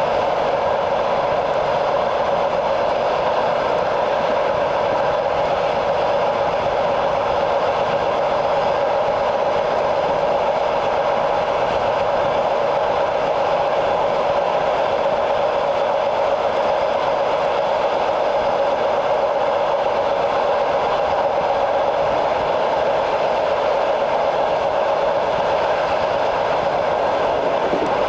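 Steady running noise of a train in motion, heard from on board: wheels rolling on the rails.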